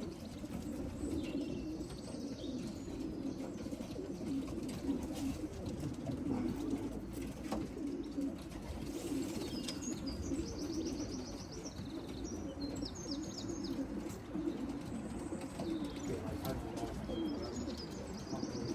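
Pigeons cooing steadily, many birds overlapping at once, with short high trilled chirps from other birds breaking in a few times.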